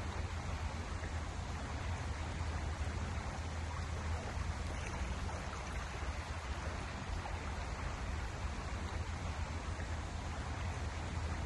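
Steady rush of a flowing river, an even noise with a deep low rumble.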